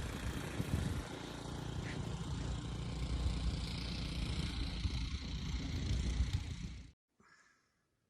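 Steady rumbling noise with a hiss above it, cutting off abruptly about seven seconds in.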